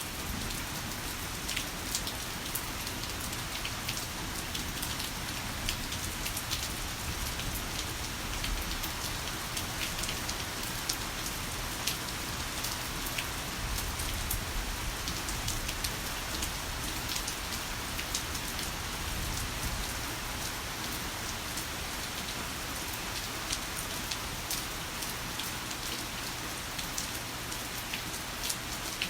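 Heavy rain falling steadily, a constant wash of noise dotted with many sharp individual drop hits.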